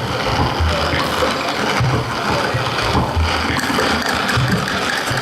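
Coffee grinder running continuously as a noise instrument, mixed with other noisy sounds, with a low thump recurring about once a second.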